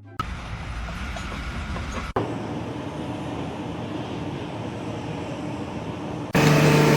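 Steady mechanical rumble of a vehicle or machine, broken by an abrupt cut about two seconds in. Near the end, a much louder steady pitched blare begins.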